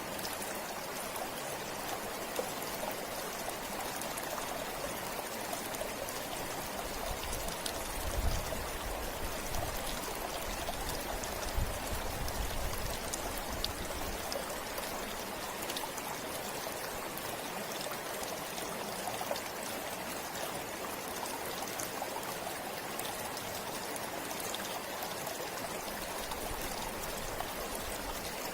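A river or stream flowing steadily, a continuous rush of water. Two brief low rumbles come about 8 and 12 seconds in.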